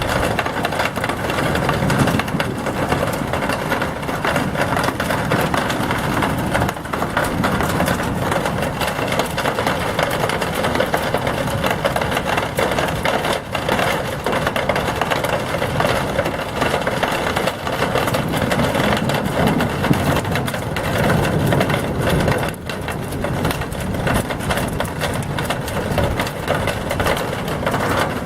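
A vehicle engine running under a steady, dense wash of noise.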